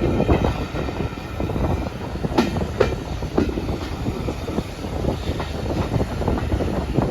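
Steam-hauled heritage train running along the line, its wheels clattering over rail joints under a steady rumble, with a few sharp knocks and rattles.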